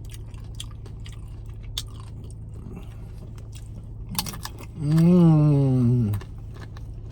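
Close-up chewing and crunching of tortilla chips: nachos being eaten, with many short crunchy clicks. About five seconds in comes a loud, drawn-out hum from the eater, lasting a little over a second and falling in pitch at the end.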